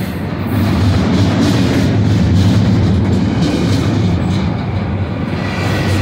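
Loaded double-stack container well cars of a freight train rolling past close by, a steady heavy noise of wheels on rail with scattered clicks. It gets a little louder about a second in.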